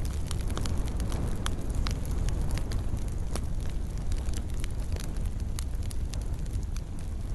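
Wood fire in a fireplace crackling, with irregular sharp pops over a steady low rumble of flames.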